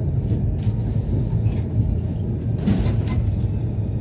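Passenger train running on the rails, heard from inside the coach as a steady low rumble, with a brief louder clatter about three seconds in.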